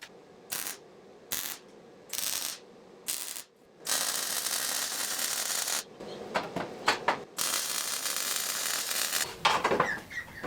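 MIG welder: four short tack welds, each a brief burst of crackling arc hiss, followed by two longer welding runs of about two seconds each, with a few sharp crackles between them.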